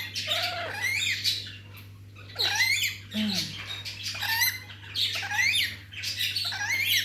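Pet parrots squawking and chirping in a rapid series of short calls that sweep sharply up and down in pitch, over a steady low hum.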